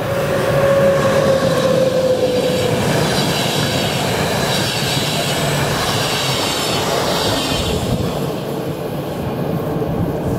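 ÖBB class 1144 electric locomotive and its Intercity coaches passing close at speed. A tone from the locomotive drops in pitch as it goes by in the first few seconds, then the coaches' wheels run loudly on the rails, easing off after about eight seconds as the last coach clears.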